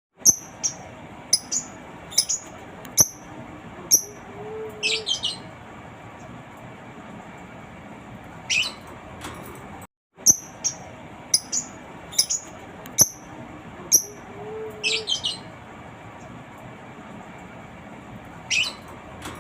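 Lovebird calling in short, sharp, high chirps, one to three a second, with a few quick runs of rising notes. The sequence breaks off briefly about halfway and then starts over, as a looped recording does.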